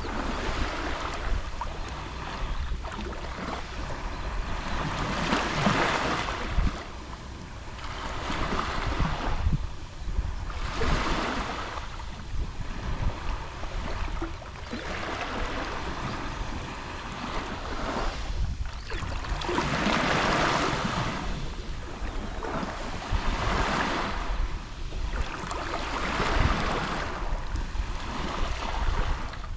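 Small sea waves lapping on a shore. Each wash swells and fades, one every four to five seconds, over a steady low rumble.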